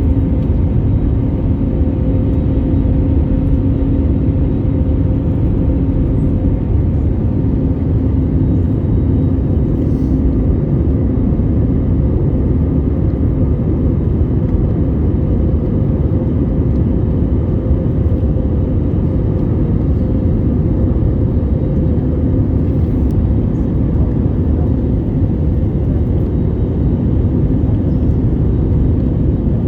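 Steady low rumble of a Boeing 787-8 airliner cabin in flight, the engines and airflow running with two steady humming tones in the noise.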